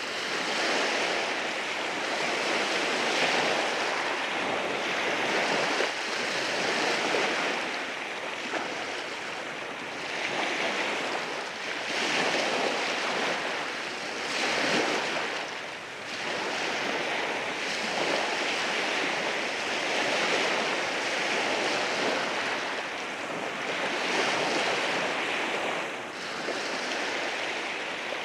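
Sea waves rolling in and washing over rocks: a continuous hiss of surf that swells and ebbs every few seconds.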